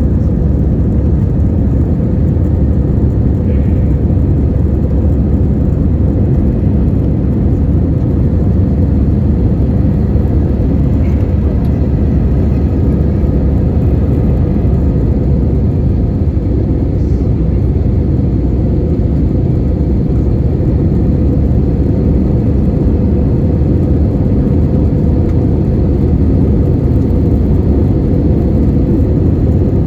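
Steady low rumble of an Airbus A320-200's engines and airflow heard inside the passenger cabin, even and unchanging throughout, with a faint steady hum above the rumble.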